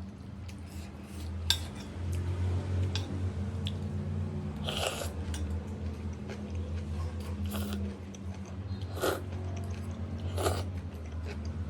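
Eating from a bowl of noodle soup: several short clinks and scrapes of utensils against the bowl, over a steady low hum.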